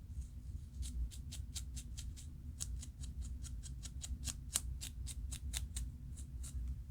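Scalp being scratched to loosen dandruff flakes: a quick run of crisp scratching strokes, about four or five a second, starting about a second in and stopping shortly before the end.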